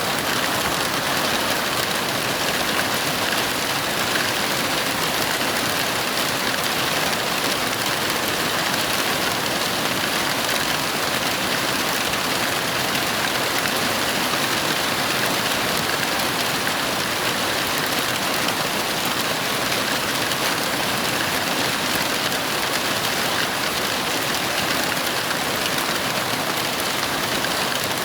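Heavy rain falling steadily, an even hiss with no thunderclaps or breaks.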